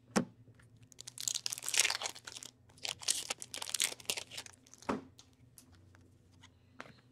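Foil wrapper of a trading card pack being torn open and crinkled, in two bursts of crackling, with a sharp click near the start and another a little before the five-second mark.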